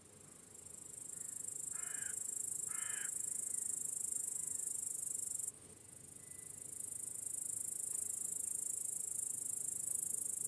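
Chorus of crickets making a dense, high-pitched chirring. It swells in over a couple of seconds, stops abruptly about halfway through, then swells in again. Two short calls come about two and three seconds in.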